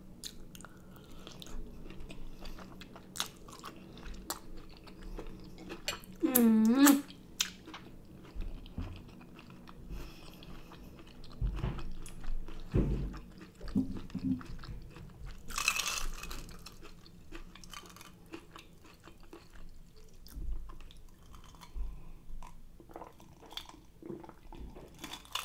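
A person chewing and crunching food in small, irregular mouthfuls. About six seconds in there is a short pitched hum, the loudest sound, and a brief hiss comes near the middle.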